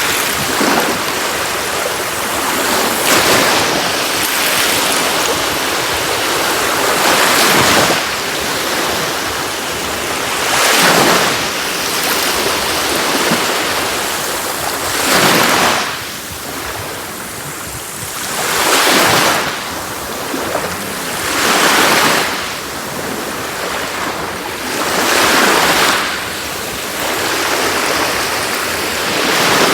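Sea waves breaking on a beach: a steady wash of surf with a wave surging and hissing up every three to four seconds.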